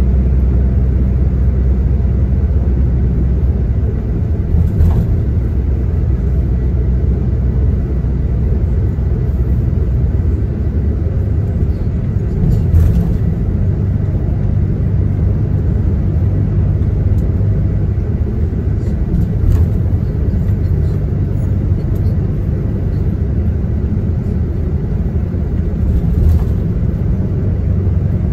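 Coach bus under way, heard from inside the passenger cabin: a steady low engine and road rumble. A few brief knocks or rattles come through, about every seven seconds.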